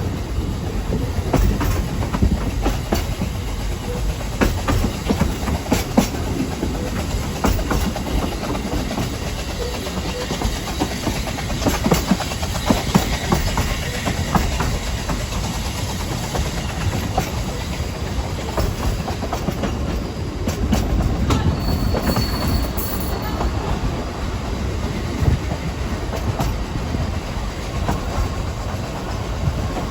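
Ffestiniog Railway narrow-gauge train running along the line: a steady rumble with wheels clicking on the rails, and a brief high squeal about two-thirds of the way through.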